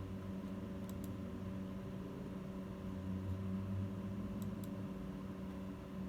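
Steady low electrical or machine hum with a few fixed tones. Two pairs of faint clicks come about a second in and about four and a half seconds in.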